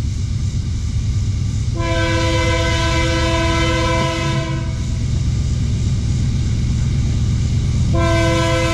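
Diesel locomotive's multi-note air horn sounding a long blast, then a second long blast starting near the end, over the steady rumble of the train.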